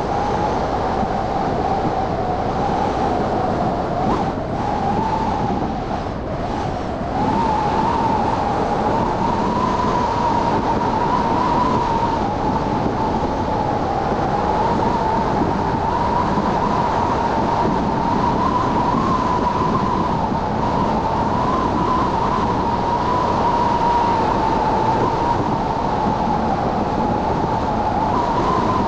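Car driving on a snowy city street: steady road and tyre noise with a sustained whine that wavers slightly and rises a little in pitch about seven seconds in.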